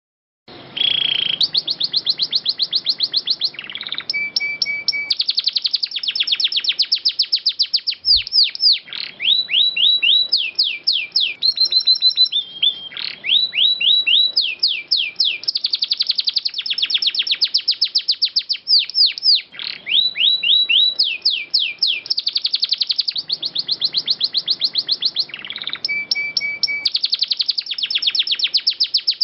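Domestic canary singing long rolling trills: rapid runs of repeated notes alternating with series of downward-sweeping whistled notes, starting about half a second in and carrying on without a break.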